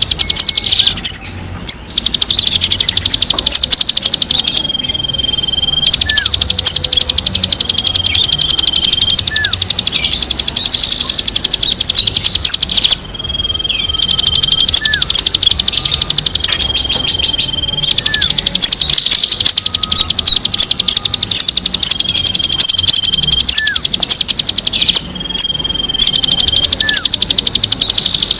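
Songbird calls: a fast, continuous high-pitched chattering trill that runs for several seconds at a time with brief breaks. Short level whistles and small upward chirps are mixed in.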